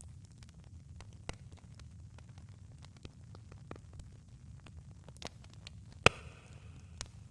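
Campfire burning: a steady low rumble with scattered sharp crackles, and one loud pop about six seconds in with a brief hiss after it.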